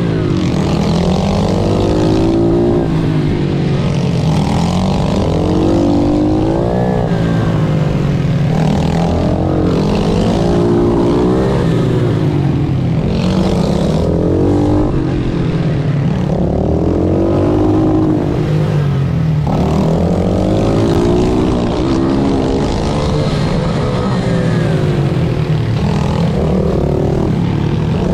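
Pit bike engine heard onboard while racing, its pitch climbing and dropping again every couple of seconds as the rider accelerates, shifts and rolls off for corners.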